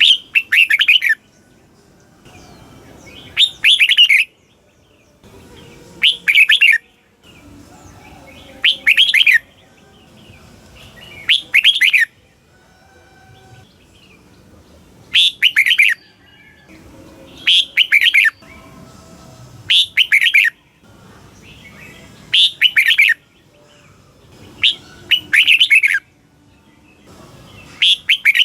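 Red-whiskered bulbul singing short, loud, chirpy song phrases over and over, each about a second long, with a gap of a second or two between them.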